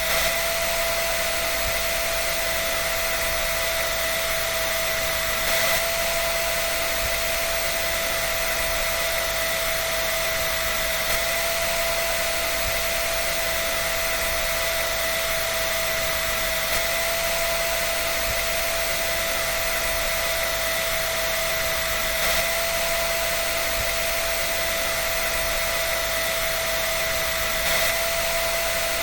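Hair dryer running continuously: a steady rush of air with an even whine.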